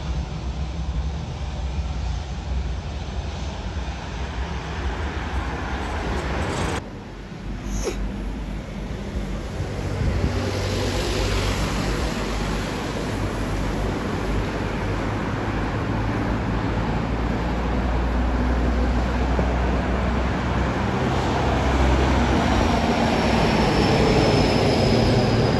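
Aircraft engine noise from an airport apron or runway, a steady rumble that drops away briefly, then builds gradually louder over the second half. Near the end a thin high whine slides slowly down in pitch.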